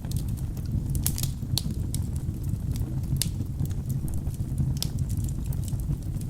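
Wood fire burning in a fireplace: a steady low rumble of flames with irregular sharp crackles and pops from the burning logs, a cluster of them about a second in and single pops at about three and five seconds.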